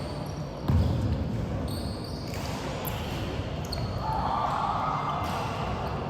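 Basketball game play on a court: a basketball bounces with a heavy thud under a second in, and short, high sneaker squeaks sound several times through the rest.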